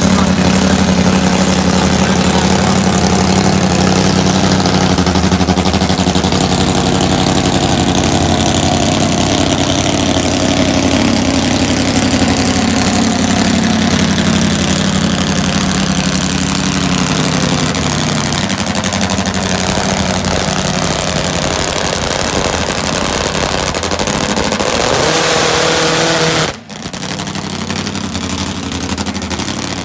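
Nitromethane-fuelled Top Fuel drag motorcycle engine running steadily, its note slowly dropping in pitch. Near the end the sound breaks off for an instant and comes back a little quieter.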